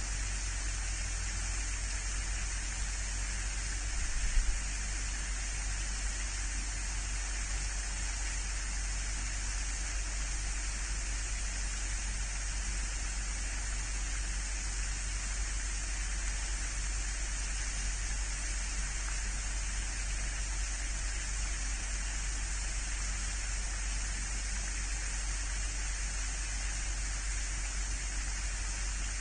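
Steady hiss over a low hum, with one brief thump about four seconds in.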